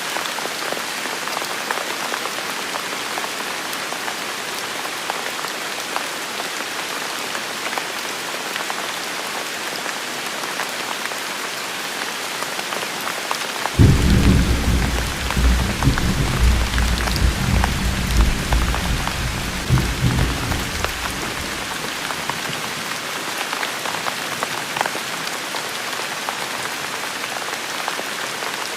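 Steady rain falling, with a clap of thunder that breaks in suddenly about halfway through and rumbles for around eight seconds before fading back to the rain.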